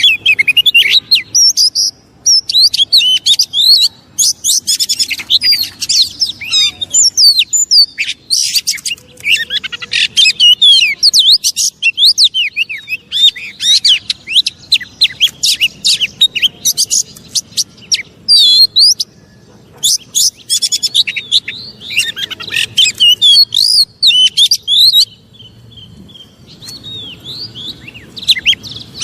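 Oriental magpie-robin (kacer) singing in an agitated, territorial way: fast runs of varied, loud chirps and whistles, broken by brief pauses, the kind of song used to provoke other magpie-robins.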